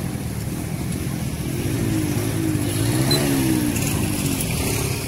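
Motor vehicle engine passing close by over steady traffic hum, its pitch rising and then falling about three seconds in.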